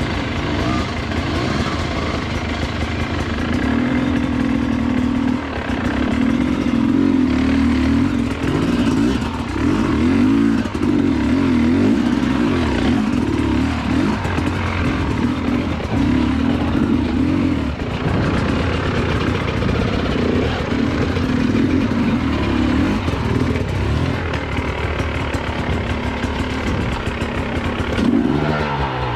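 Dirt bike engine running under load on a slippery trail, its pitch rising and falling repeatedly as the throttle is worked.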